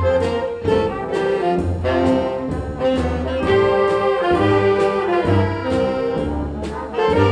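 High school concert band playing a holiday piece: brass and winds holding chords over a steady beat.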